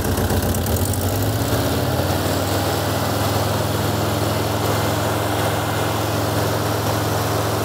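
VW Mexico Beetle's air-cooled flat-four engine running, revved up about a second in and then held steady at raised revs.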